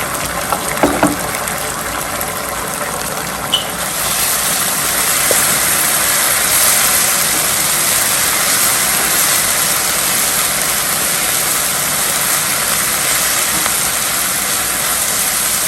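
Onions and sauce sizzling in a hot frying pan, with a few clinks near the start; the sizzle gets louder about four seconds in.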